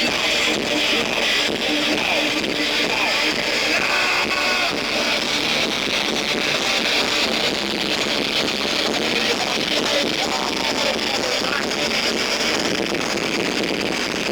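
A live rock band playing with heavy distorted electric guitars, loud and steady, recorded thin with little bass.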